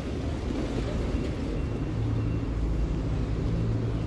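City street traffic: a motor vehicle's engine running with a low, steady note that grows stronger about halfway through, over general road noise.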